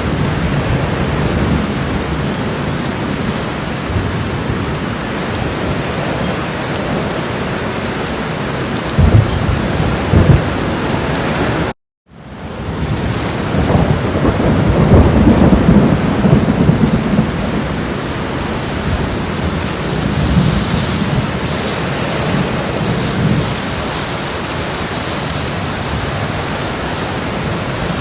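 Made thunderstorm sound effects: a steady hiss of rain with rolling low thunder rumbles. A rumble comes about a third of the way in, the sound cuts out completely for an instant just before halfway, then a long rumble swells and fades under the rain.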